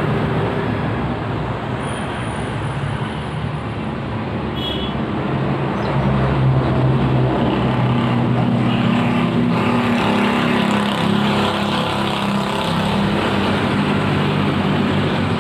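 A motor vehicle engine running close by, with a steady low hum that grows louder and shifts in pitch about six seconds in.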